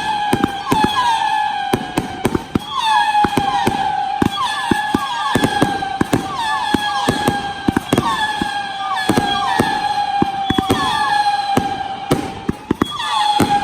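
Professional aerial fireworks going off in rapid, loud bangs and crackles. Over them runs a steady whistling tone, with short falling whistles repeating every fraction of a second.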